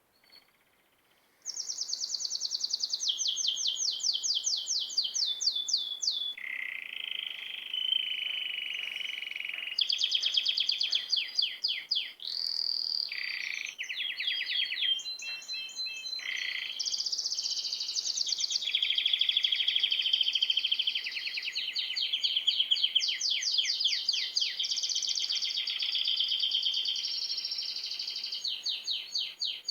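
Small songbirds chirping and trilling without a break: fast runs of high, repeated chirp notes overlapping one another. The chorus starts suddenly about a second and a half in.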